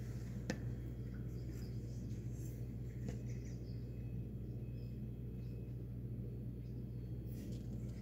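Faint, scattered bird chirps over a steady low hum, with a single sharp click about half a second in.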